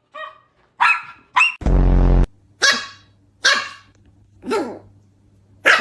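Pet dog barking back at its owner: a string of short barks about one a second, with one louder, harsher, longer bark about two seconds in.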